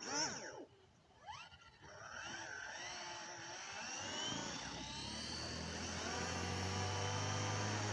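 WLtoys V950 RC helicopter's brushless motor and rotor spooling up: two short pitch swoops, then a whine that rises in pitch and settles into a steady hum, getting louder.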